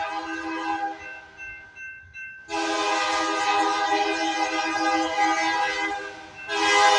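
CPKC locomotive's multi-tone air horn blowing in long blasts: one ends about a second in, a long blast sounds from about two and a half to six seconds, and another starts just before the end.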